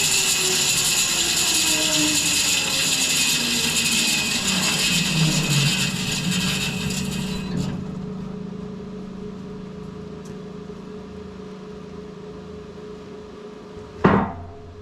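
Wide bandsaw mill's blade cutting through a big maple log with a loud hiss and a falling whine. The cut ends abruptly about halfway, leaving the mill running with a steady, quieter hum. One short sharp knock comes near the end.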